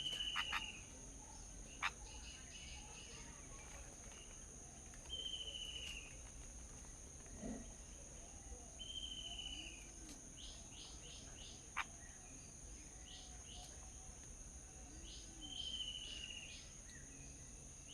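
Birds calling: a short falling call repeated every four seconds or so, with quick runs of four or five chirps in between, over a steady high-pitched insect drone. Two sharp clicks stand out, one about two seconds in and one near twelve seconds.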